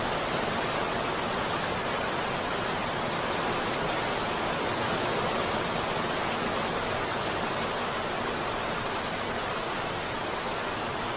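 Heavy rain falling in a steady, even hiss, with no distinct drops or thunder.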